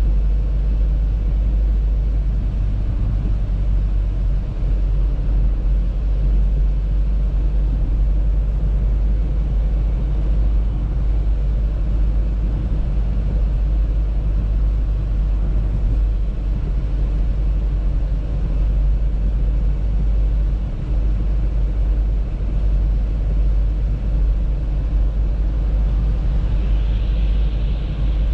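Audi A3 driving: a steady, low rumble of road and engine noise.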